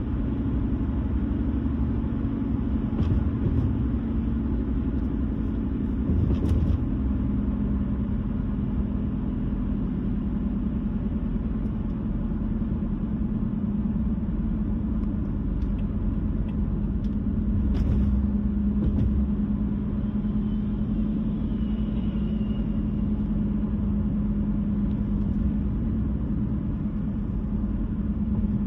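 A car on the move: steady road and engine rumble with a constant low hum that drops slightly in pitch about eight seconds in. A few brief clicks or knocks sound through it.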